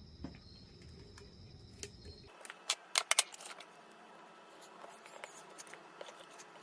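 Parts of a plastic bedside lamp being handled and fitted together during reassembly: scattered sharp clicks and knocks, with the loudest cluster about three seconds in.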